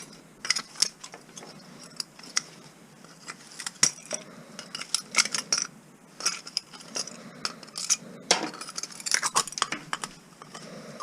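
Irregular clusters of light metallic clinks and rattles as small metal parts of an outdoor light fixture are handled and knocked together while it is taken apart.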